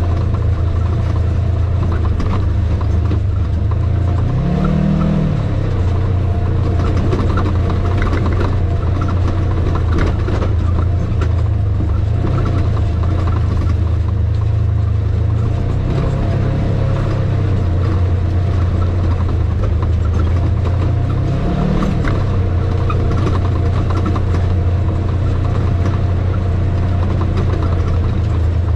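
Vehicle engine running at low speed over a rough dirt road, with light knocks from the road. Its pitch rises briefly twice: about four seconds in and again about twenty-one seconds in.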